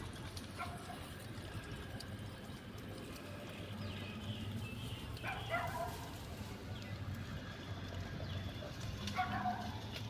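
A few short animal calls, each falling in pitch, over a steady low outdoor background: one about half a second in, one near the middle and one near the end.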